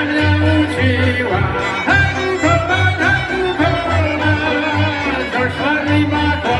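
Slovak folk band from Horehronie playing live: a fiddle melody over a steady bass.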